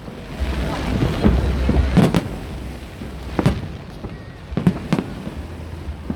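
Fireworks display going off: several sharp bangs of aerial shells bursting, a few strong ones spaced about a second apart, over a low rumble.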